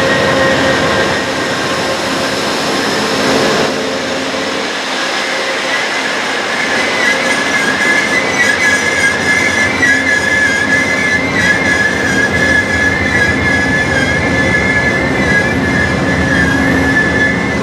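Train rolling along the rails with a steady rumble; from about six seconds in the wheels squeal against the rails, a high, slightly wavering screech that holds on.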